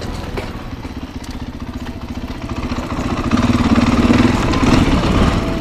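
Dirt bike engine running, getting louder about three seconds in as it revs up or passes close, then easing off near the end.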